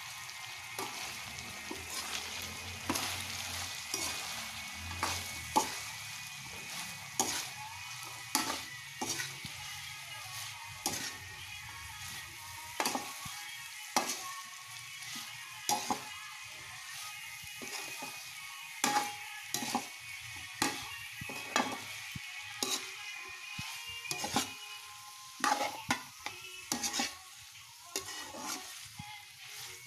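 Food sizzling in a pan while a utensil stirs it, scraping and knocking against the pan in frequent, irregular strokes.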